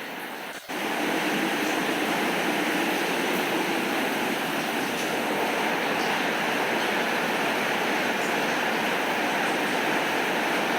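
Steady rain, an even rushing hiss that dips for a moment about half a second in and then comes back louder and stays level.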